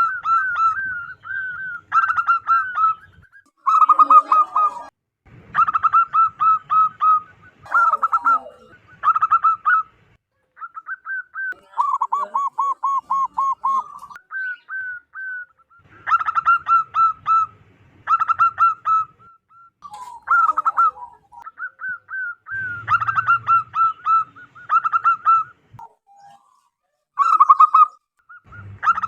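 Zebra dove calling: loud phrases of rapid staccato coos, each a second or so long, repeated with short gaps between.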